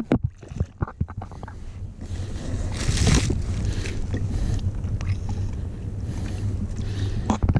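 Wind buffeting the microphone on a kayak at sea. There are several sharp knocks in the first second or so, and a louder rush of noise about three seconds in.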